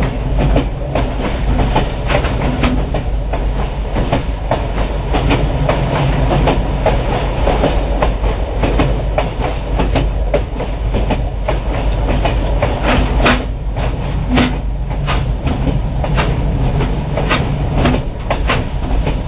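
Excursion passenger train rolling along the track: a steady low rumble with frequent, irregular clicks and clacks of the wheels running over rail joints.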